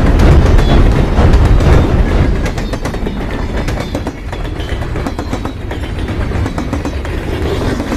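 Train running along the rails: a heavy low rumble with rapid clattering, loud at first and easing off a little after about two seconds.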